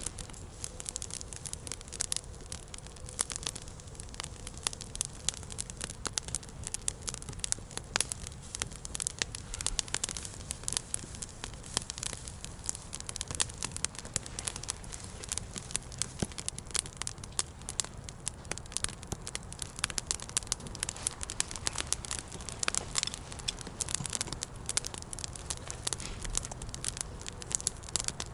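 Campfire of dry spruce wood crackling, with frequent sharp pops and snaps.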